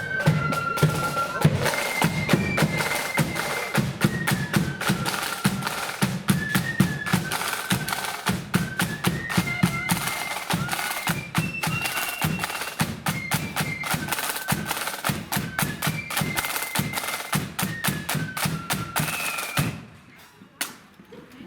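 Marching flute band playing a tune: a high flute melody over rapid snare drum rolls and a bass drum beat, in the blood-and-thunder style. The music stops abruptly near the end.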